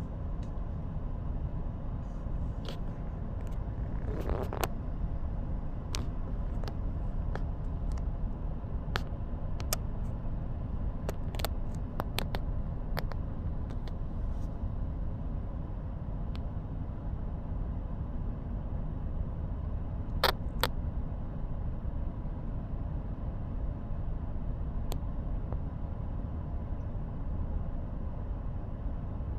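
Strong sandstorm wind buffeting the microphone as a steady low rumble, with scattered sharp clicks and ticks throughout.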